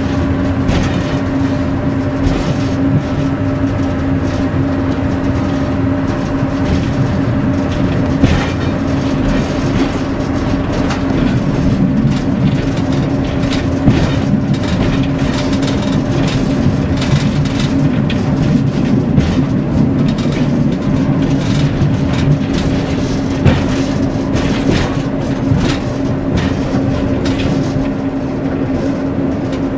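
Class 141 Pacer diesel railcar running along the track, heard from inside the driver's cab: a steady engine drone with a constant hum, and frequent knocks and rattles from the cab and the wheels on the rails.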